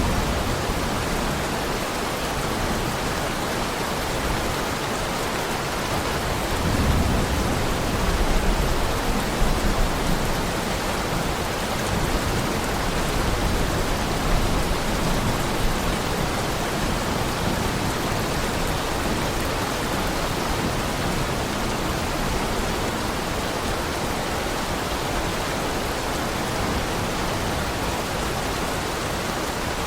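Heavy rain falling steadily as an even hiss, with a low rumble of thunder swelling about seven to ten seconds in.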